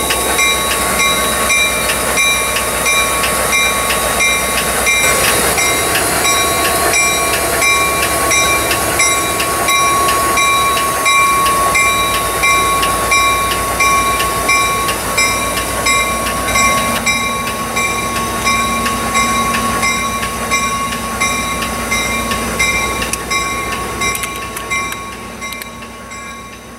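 Saratoga & North Creek passenger train behind an EMD F40PH diesel locomotive, moving away along the track. There is a steady rumble with a constant ringing tone and regularly repeating clicks, and the sound fades out near the end.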